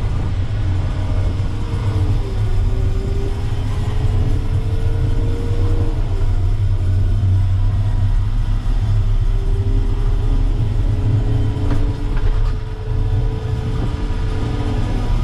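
Terex FD4000 front-discharge concrete mixer truck driving, heard from inside the cab: a heavy, steady low rumble. A faint whine slowly climbs, drops off about six seconds in, and climbs again.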